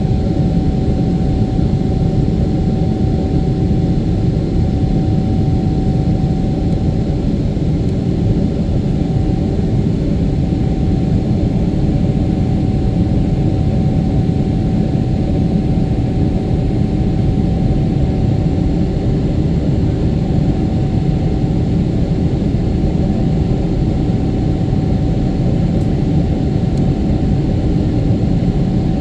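Jet airliner in the air after take-off, heard from inside the passenger cabin: a steady, loud rumble of engines and airflow with a constant mid-pitched hum that does not change.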